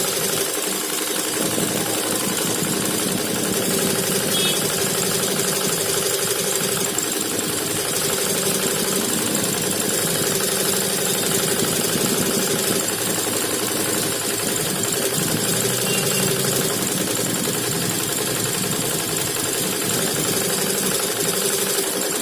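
HSW 12-needle high-speed embroidery machine running steadily, its needles stitching at speed with a rapid, even mechanical clatter over a constant motor hum.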